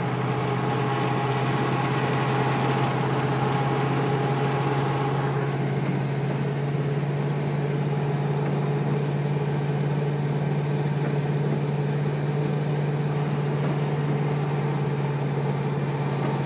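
Car engine and road noise heard inside the moving vehicle's cabin, a steady low drone. The higher hiss over it eases about five seconds in.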